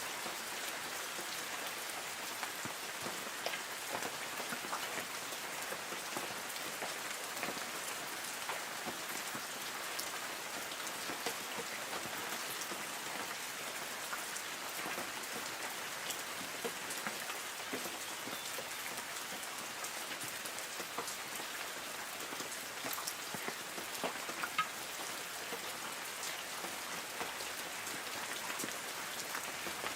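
Light rain falling on forest trees: a steady hiss of rain, with many separate drops ticking and pattering on leaves.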